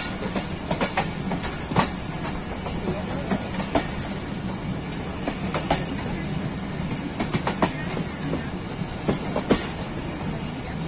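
Passenger train coach running at speed, its wheels clicking irregularly over rail joints above a steady rumble.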